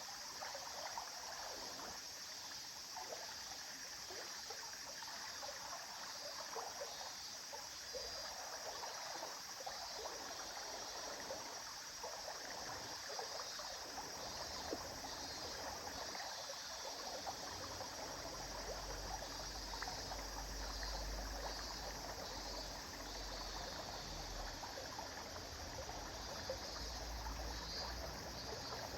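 A river flowing steadily, its water rushing and trickling without a break. A low rumble joins in about two-thirds of the way through.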